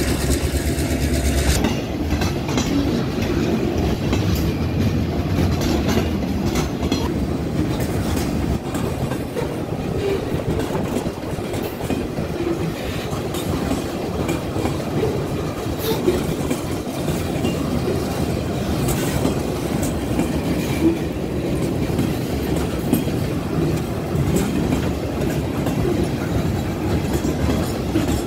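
Loaded sugarcane gondola cars of a freight train rolling past, their wheels clattering steadily over the rails. A low drone fades out about a second and a half in.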